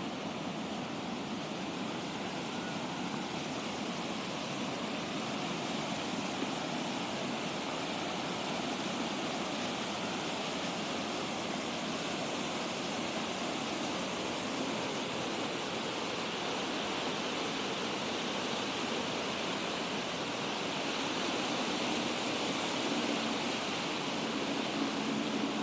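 Steady rush of water pouring down a waterfall, an even noise that grows a little louder near the end.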